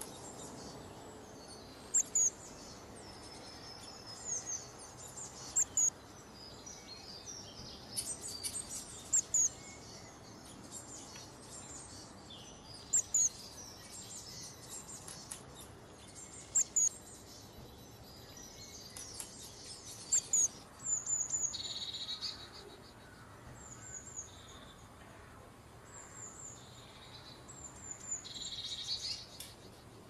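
High-pitched bird chirps: short calls that come in small clusters every few seconds, over a faint steady hiss.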